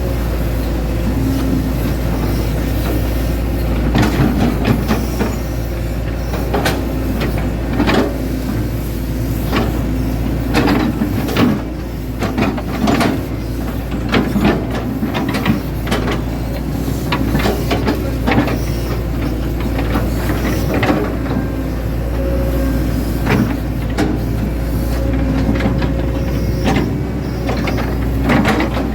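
Hitachi Zaxis 110 excavator working: a steady diesel engine drone with irregular metallic clanks and knocks from the working gear every second or two.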